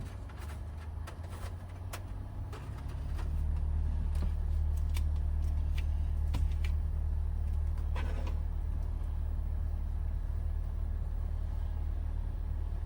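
Toyota HiAce van running, a steady low rumble that grows louder about three seconds in, with a few light clicks and taps over it.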